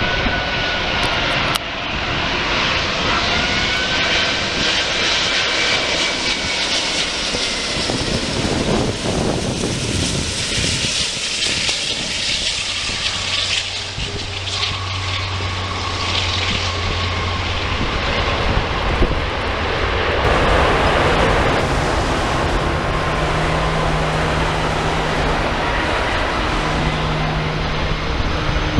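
Qantas Airbus A380-800 jetliner flying past on its landing approach, its four turbofan engines making a loud, steady jet noise with whines that slide in pitch as it goes by.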